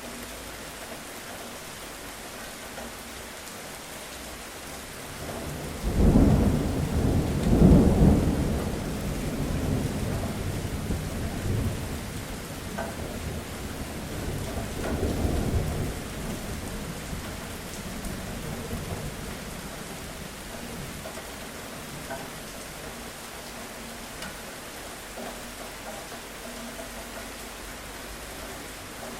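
Steady rain with a thunderclap breaking about six seconds in, its deep rumble rolling on with a second swell and fading out over the following dozen or so seconds.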